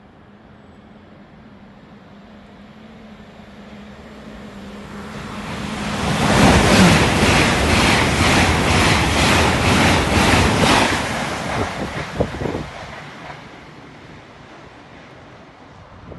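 Hitachi Class 802 bi-mode express train passing through the station at speed. The rush of wheels and air builds over several seconds, is loudest for about five seconds with a regular beat as the wheelsets go by, then fades away.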